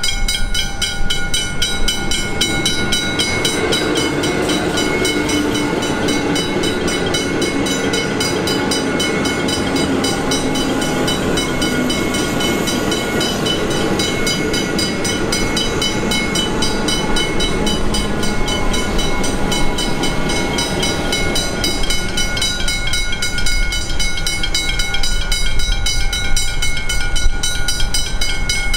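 A train running past a level crossing, its wheels and running gear rumbling loudly through the middle before easing off. Steady high tones and an evenly repeating ringing from the crossing's warning bells continue throughout.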